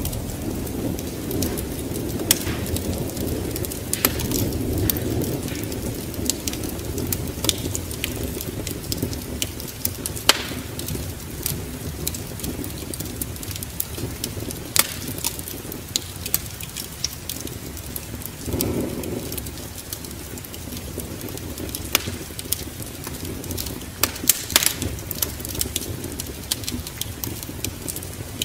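Wood fire in a fireplace crackling, with scattered sharp pops, over a low steady rumble.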